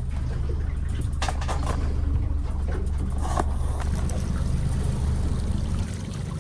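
A boat's motor runs steadily at low speed. A few brief knocks sound over it in the first half.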